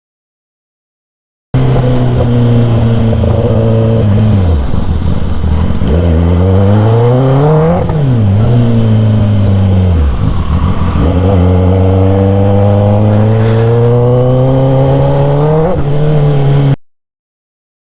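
Kawasaki ZX-10R inline-four engine through a loud SC Project aftermarket exhaust. It cuts in after a brief silence and runs with a steady note. About halfway through it revs sharply up and back down, then dips and climbs again before cutting off abruptly near the end.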